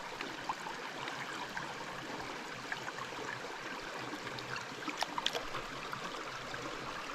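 Creek water running steadily over rocks, with a few faint clicks about five seconds in.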